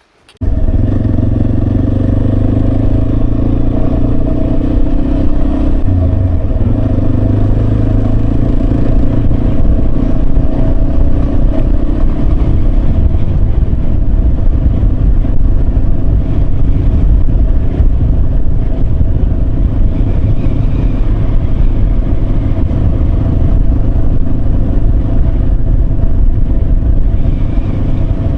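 Yamaha Serow 250's single-cylinder engine running under way, with wind and road noise. It cuts in suddenly about half a second in, and the engine note shifts a few times as the speed changes.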